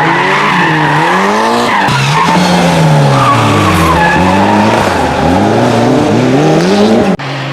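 Rally car engine revving hard, its pitch climbing and dropping again and again with the throttle and gear changes, over tyre and surface noise. An abrupt cut near the end brings in a steadier engine note.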